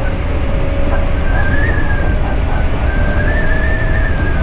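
Hankyu electric train running on the rails, heard from inside the driver's cab: a steady low rumble with a motor whine that rises slowly in pitch and a higher wavering tone above it.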